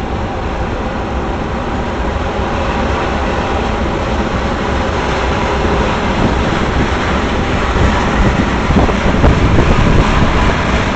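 Freight train cars rolling past, a steady rumble and rattle of wheels on rail that grows a little louder near the end.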